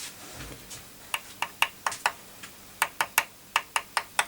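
A home-made electric solder pot heating up, giving off a run of short, sharp, irregular clicks, about a dozen over three seconds, beginning about a second in.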